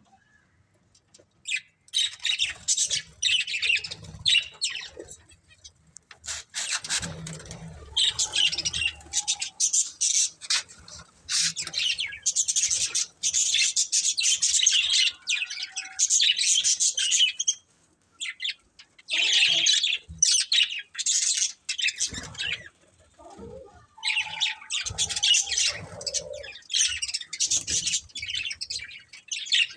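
Budgerigars chattering and chirping in quick, scratchy bursts, stopping briefly a few times before starting up again.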